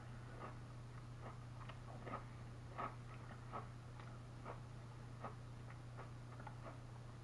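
Faint, irregular mouth clicks and crunches from chewing Lay's STAX stacked potato crisps, two or three a second, over a steady low hum.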